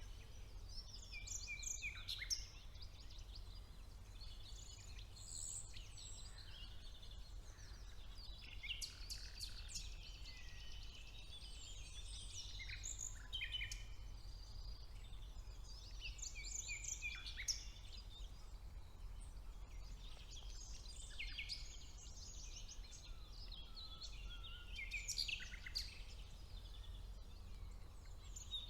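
Woodland chorus of several songbirds singing at once, overlapping chirps, whistles and rapid trills, over a steady low hum.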